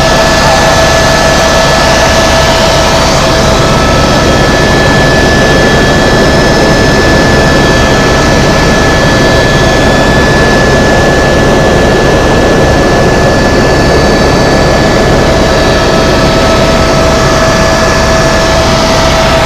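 Tour helicopter in flight, heard from inside the cabin: a steady, loud turbine whine and rotor noise, two constant high tones over a dense rumble.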